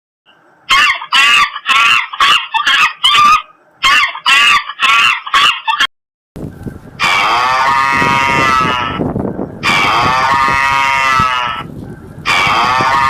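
Farm poultry calling: a quick run of about ten short honking calls, then, after a brief break, three long drawn-out calls.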